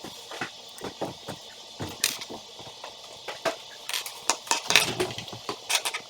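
Irregular clicks and clatter of small hard parts being handled and knocked together, coming thicker and louder in the second half.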